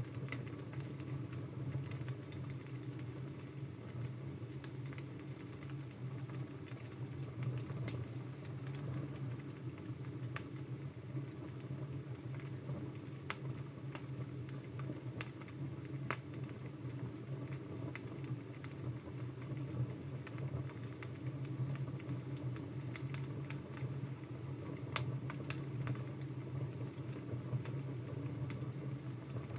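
Wood fire crackling with irregular sharp pops over a steady low hum.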